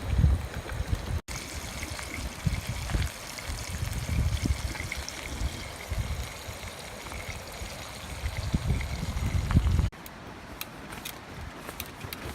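Flowing river water with gusts of wind buffeting the microphone. The sound cuts off sharply about a second in and again near the end, and scattered light clicks follow the second cut.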